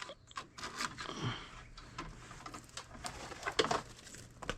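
Scattered light clicks and short scrapes of scrap wire being handled and stripped, with a slightly louder cluster about three and a half seconds in.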